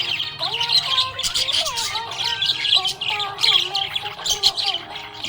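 Budgerigars chirping and chattering rapidly and continuously, with a song's melody playing underneath.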